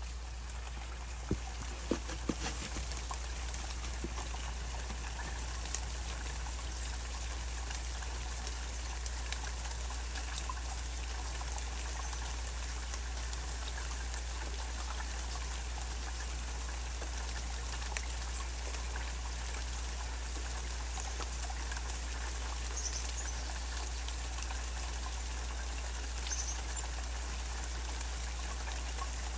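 Steady rain falling, with a run of sharp close drips or taps in the first few seconds and scattered single drips after.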